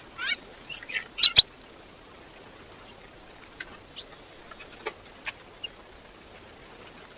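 Small birds at a feeder giving a quick run of short, high chirps in the first second and a half, with one sharp tap at the end of it, then a few scattered faint ticks.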